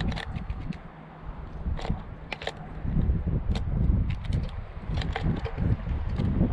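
Irregular sharp clicks and taps over a low, wind-like rumble.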